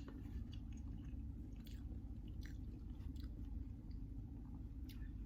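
A person chewing a mouthful of club sandwich, with faint, irregular crunches and small mouth clicks over a low steady hum.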